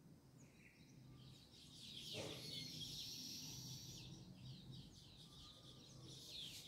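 Faint chirping of small birds, a quick run of high chirps in the middle, with a soft tap about two seconds in; otherwise near silence.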